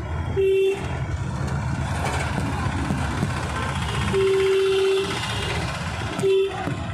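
A vehicle on the move, with steady engine and road rumble, and a horn sounding three times: a short honk, then a longer one about four seconds in, then another short honk near the end.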